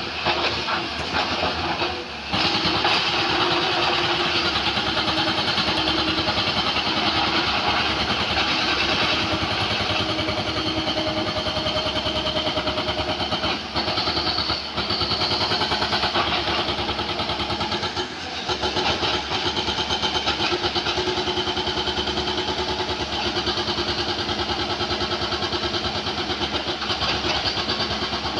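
JCB excavator's engine working under load with a dense, fast pulsing, briefly dropping off about two, fourteen and eighteen seconds in.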